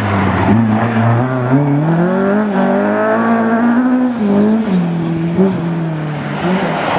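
Rally car engine at high revs as the car passes close by. Its pitch climbs for a few seconds, drops sharply about four seconds in, then rises and dips again.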